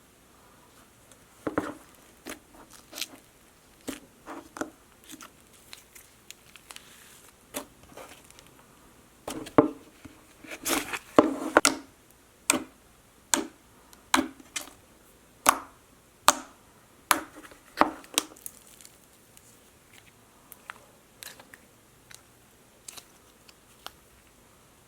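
Slime being squished and poked by hand: irregular sharp clicks, pops and crunches, thickest and loudest about ten seconds in.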